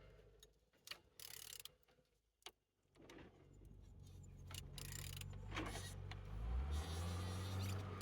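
Renault K4M 1.6-litre engine being turned over by its crankshaft, which turns freely and is not seized. A few clicks and knocks come in the first two seconds, then a low buzzing hum builds and is loudest near the end.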